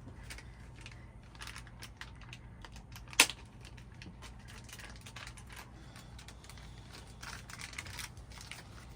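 Light irregular clicking and rustling of small hardware and packaging being handled while a soundbar wall mount is put together, with one sharp knock about three seconds in, over a low steady hum.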